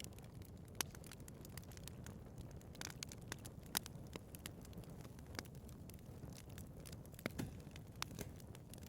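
Wood fire burning in a fireplace, with a steady low rumble and irregular crackles and sharp pops from the burning logs.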